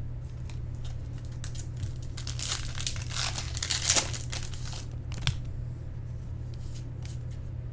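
Foil wrapper of a trading-card pack crinkling and tearing as it is torn open by hand, busiest from about two to four seconds in. A steady low hum runs underneath.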